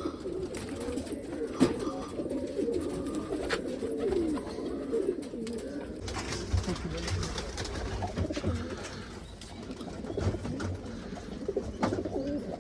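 Several domestic pigeons cooing together, many low overlapping coos with a few short clicks among them.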